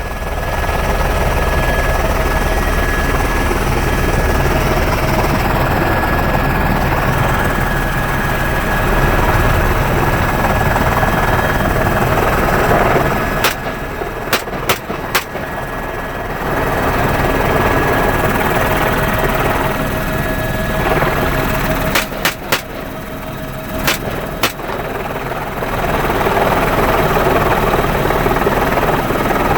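Helicopter rotor and engine running steadily inside the cabin, with two quick volleys of semi-automatic .223 rifle shots, about four shots each: one around the middle and one about two-thirds through.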